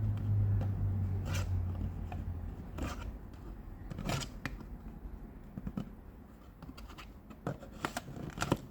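Cardboard model box and packaging being handled and turned over: scattered scrapes, rustles and light taps. A low steady hum sounds under it for the first two and a half seconds.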